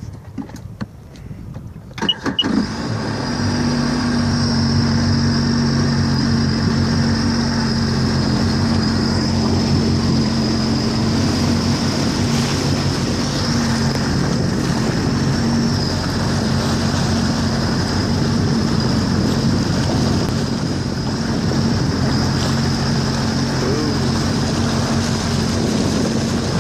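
Jet ski engine running at a steady speed, with a high whine over its hum and a rush of wind and water; it comes up suddenly and loudly about two seconds in, after a quieter start.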